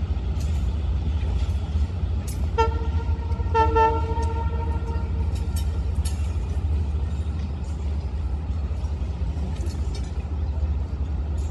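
A departing commuter train rolls away along the track with a steady low rumble and scattered light clanks. A few seconds in, a horn sounds twice, first a short toot and then a longer blast of about a second and a half.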